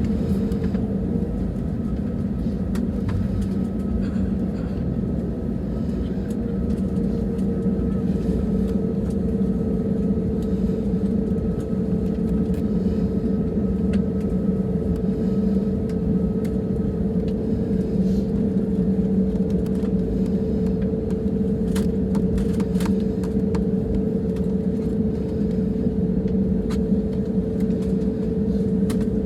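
Airbus A320neo cabin noise with its CFM LEAP-1A engines running: a steady low rumble under an even hum. A few light clicks or rattles come about two-thirds of the way through.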